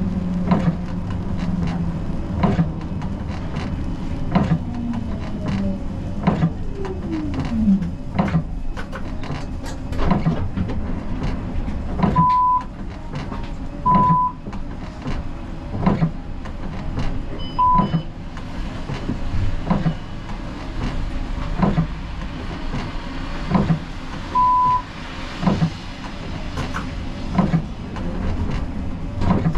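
Siemens Combino tram running, heard from the driver's cab. The electric drive's whine falls in pitch a few seconds in, and clicks with low knocks repeat about every two seconds. Several short high beeps sound in the middle.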